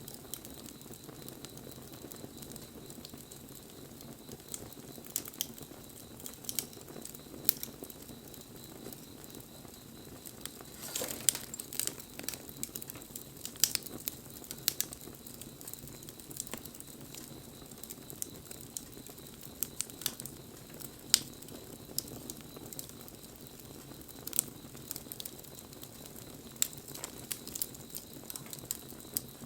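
Wood fire crackling, with irregular sharp pops and snaps throughout, a quick run of them about eleven seconds in, and one louder snap about twenty seconds in.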